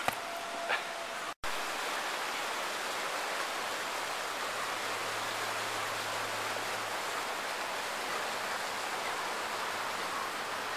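Steady rushing outdoor noise, an even hiss with no voices, broken by a brief cut-out about one and a half seconds in.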